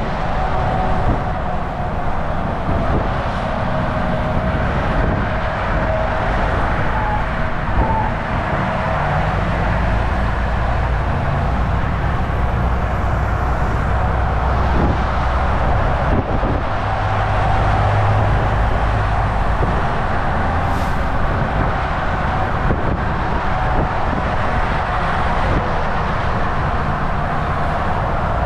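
Volvo VNL 760 semi-truck cruising at highway speed: a steady low engine drone under constant tyre and road noise, with a faint held whine in the mid range.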